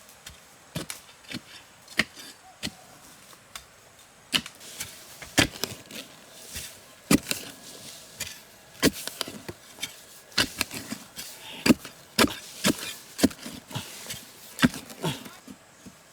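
Repeated chopping strikes of a blade into wood, irregular at about one to two a second, sparse and light at first and then heavier and more frequent from about four seconds in.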